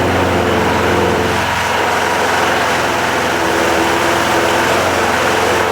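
Briggs & Stratton 5 HP single-cylinder lawn mower engine running steadily just after starting on a freshly rebuilt carburettor.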